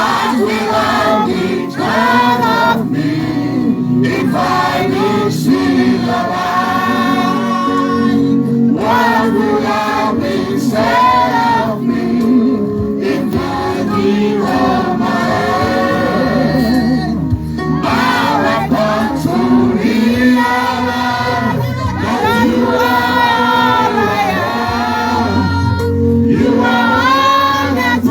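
Gospel worship song: a group of voices singing over instrumental backing, in sung phrases that break every second or two.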